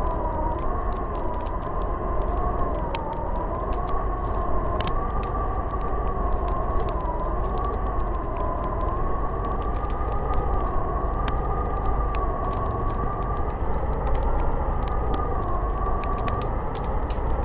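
Snowstorm wind howling steadily over a low rumble, its whistling pitch slowly wavering up and down. Light scattered ticks throughout.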